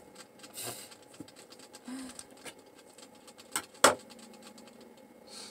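Small clicks and brief scrapes of a loaf of cold process soap being cut by hand with a soap cutter, with one sharp knock just before four seconds in, the loudest sound.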